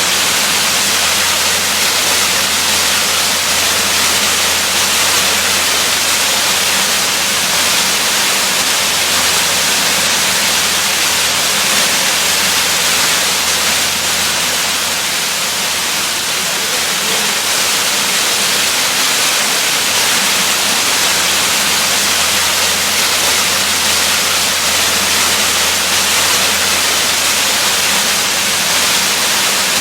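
Waterfall: a steady, dense rush of falling water, mostly a high hiss, unchanging throughout.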